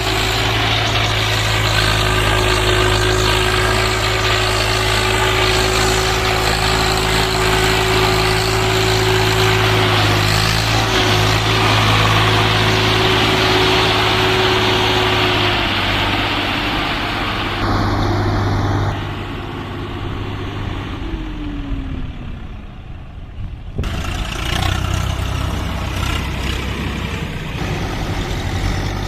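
Swaraj 855 FE tractor's three-cylinder diesel engine running steadily, hauling a fully loaded trolley. About two-thirds of the way through, the sound turns quieter and duller for about five seconds, with a short falling tone, then the full engine sound returns.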